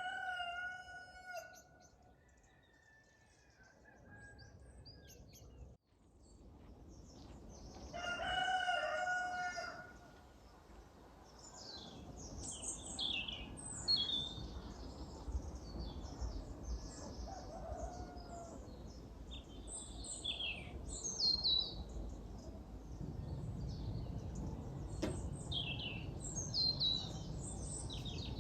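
A rooster crows twice, once at the start and again about eight seconds in. From about twelve seconds on, small birds chirp and sing over a low background rumble.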